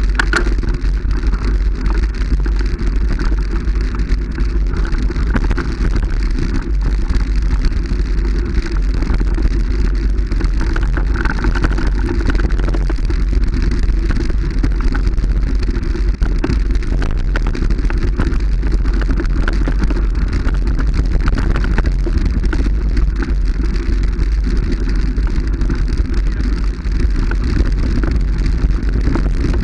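Steady rumble and rushing noise of a moving vehicle, with constant crackling.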